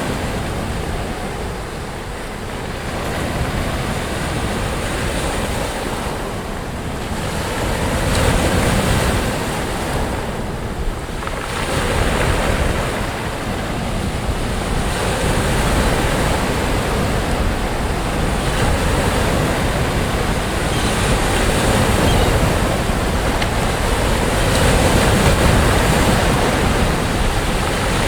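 Sea waves breaking and washing up the beach: a continuous surf that swells louder now and then.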